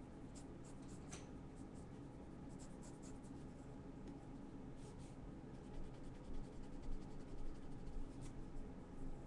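A pen drawing with short, quick scratchy strokes, some of them louder in the second half, over a steady low hum.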